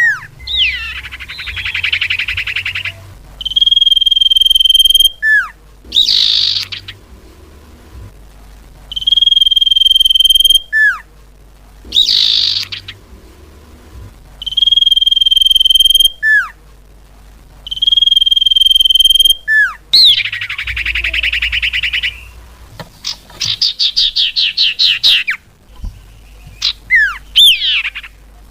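Recorded common iora calls played as a lure: long steady whistles, each ending in a sharp downward slur, alternating with buzzy, rapidly rattled chatters. The pattern repeats four times, then a run of chatters and short slurred calls follows near the end.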